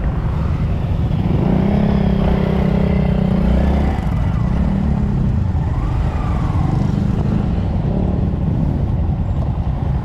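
Honda Monkey 125 motorcycles' single-cylinder engines running amid low rumble, one engine holding a steady higher note from about one and a half to four seconds in.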